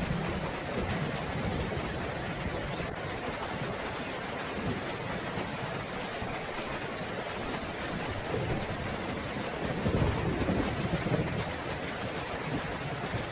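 Steady rain falling in a thunderstorm, with low rolling thunder that swells to a louder rumble about ten seconds in.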